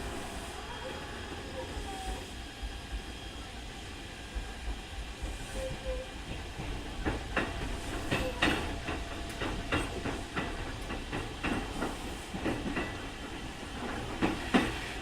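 Interior running sound of a Keikyu 2000 series electric train: a steady rumble and hiss, with faint motor tones gliding in pitch. About halfway in, a run of irregular clacks starts as the wheels pass over rail joints and points.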